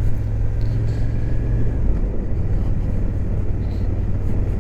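Suzuki GSX-8S parallel-twin motorcycle engine running under way, with wind and road rumble picked up by a microphone inside the rider's helmet. The low engine note drops about two seconds in.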